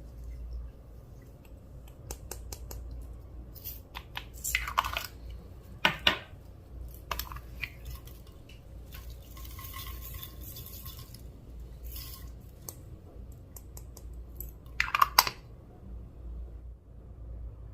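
Clear slime being handled and mixed with added items: scattered sticky clicks and crackles, with three louder rattling bursts about five and six seconds in and near the end.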